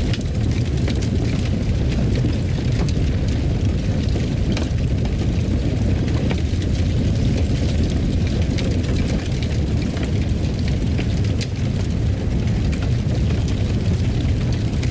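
Wood fire crackling in a fireplace: a steady low rumble with frequent small pops and snaps.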